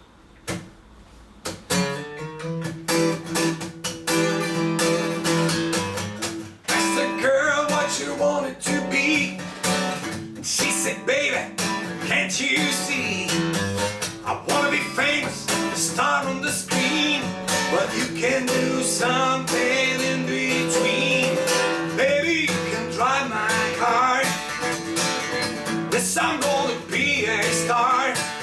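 Guitar music, plucked and strummed chords with a wavering melody line over them; it starts quietly and comes in fully about two seconds in.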